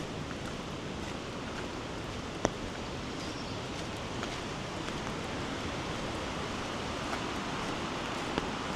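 Steady hiss of outdoor water: rain falling and swollen floodwater running. One sharp drip-like tick about two and a half seconds in, and a fainter one near the end.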